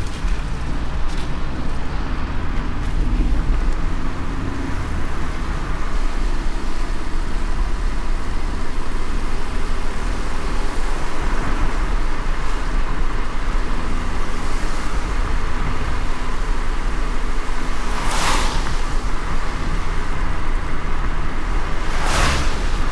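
A car driving in light rain: a steady low rumble of engine and tyres on a wet road under a hiss of rain, with two brief swishes about four seconds apart near the end.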